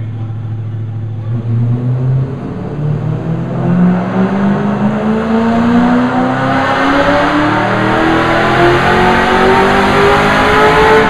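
Ford Mustang's engine on a chassis dyno making a full-throttle pull. After about a second of steady running, the engine note climbs steadily in pitch and grows louder right through to the end, with no break for a gear change.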